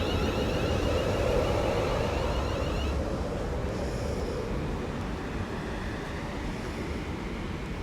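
Siemens Class 360 electric multiple unit running through the station: a deep rumble of wheels on rail, with a high electrical whine from the traction equipment that stops about three seconds in while the rumble slowly fades.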